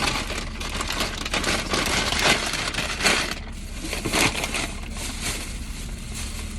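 A bag and food containers rustling and crinkling irregularly as leftover food is packed back into the bag.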